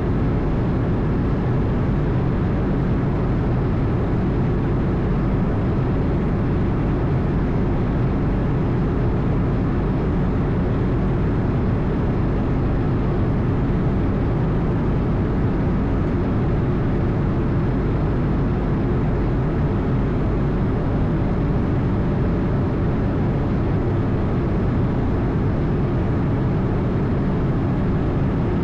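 Steady engine and airflow noise heard on board an Airbus A220: a constant low rumble and rush that does not change.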